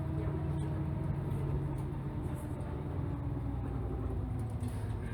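City bus engine running while the bus is underway, heard from inside the passenger cabin: a steady low hum whose pitch drops slightly through the middle, with a few faint rattles.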